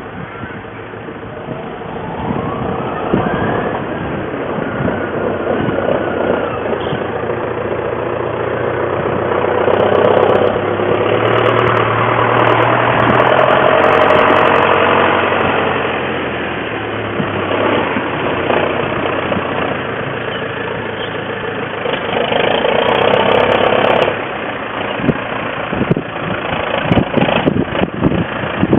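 Tractor engine running steadily, picking up in speed and loudness twice along the way, with a run of sharp knocks near the end.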